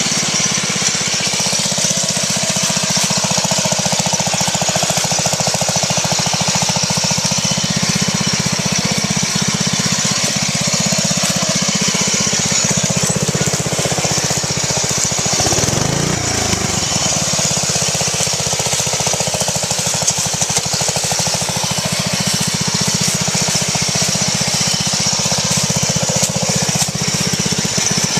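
Riding lawn mower engine, converted for off-road racing, running steadily under way. About fifteen seconds in the revs dip and climb back up.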